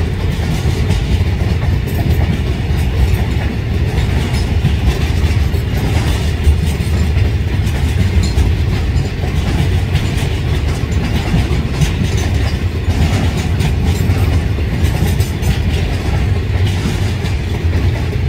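Container wagons of a long freight train rolling past close by: a steady, loud low rumble of steel wheels on the rails, with scattered clicks over the rail joints.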